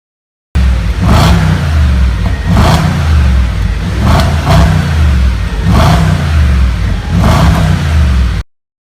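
Audi S5 V8 with a modified Stage 3 exhaust, revved in a series of about six throttle blips, each rise and fall about a second and a half apart. The sound starts abruptly about half a second in and cuts off sharply near the end.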